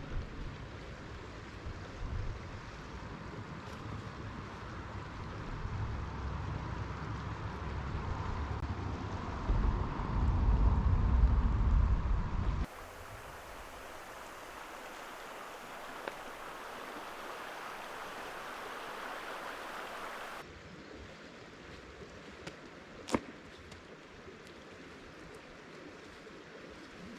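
Creek water running over rocks, a steady rushing hiss, with a heavy low rumble of wind on the microphone through the first twelve seconds that is loudest just before it cuts off abruptly. A single sharp click sounds a little after twenty seconds.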